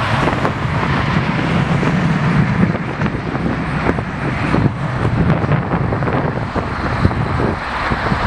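Steady vehicle rumble mixed with irregular wind buffeting on the microphone.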